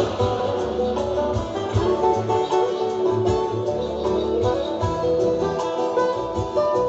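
Instrumental acoustic guitar music: plucked notes over a pulsing low bass line, with no singing.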